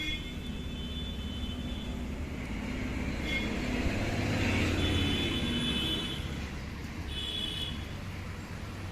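Road traffic: a steady low motor rumble that swells as a vehicle passes about halfway through and then fades. Short high-pitched tones come several times.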